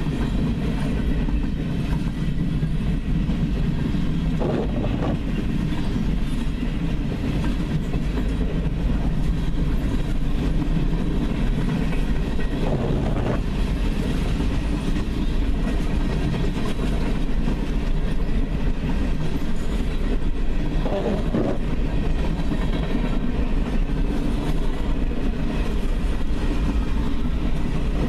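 Freight cars of a long train rolling past, a steady rumble of wheels on rail with clickety-clack and a few brief louder clanks.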